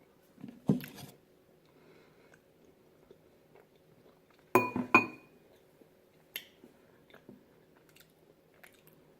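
Eating ice cream from a bowl: a few soft knocks just under a second in, then two sharp ringing clinks of a utensil on the bowl about halfway through, with small mouth and chewing sounds between.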